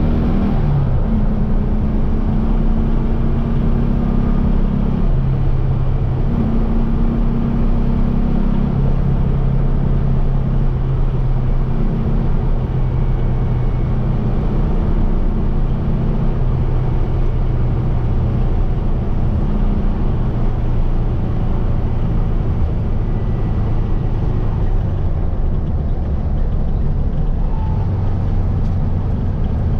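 Air-cooled 1700cc Volkswagen flat-four engine of a Baja Bug running hard under way, loud and steady. Its note shifts up and down in steps every few seconds as the revs change.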